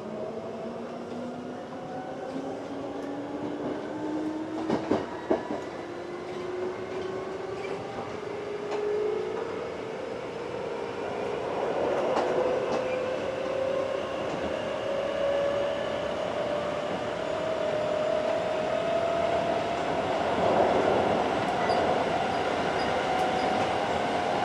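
Hankyu 7300 series field-chopper-controlled electric train heard from inside the car, pulling away. Its traction motor and gear whine rises steadily in pitch as the train picks up speed. The wheels click over rail joints a few times about five seconds in.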